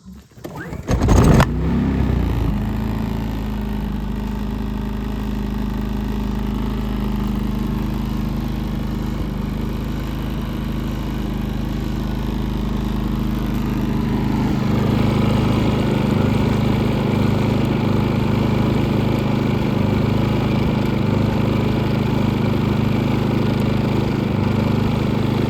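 Predator portable generator's single-cylinder engine pull-started: a pull about a second in, then the engine catches and runs steadily, running well on its freshly cleaned carburetor. About halfway through, its sound gets somewhat louder and fuller.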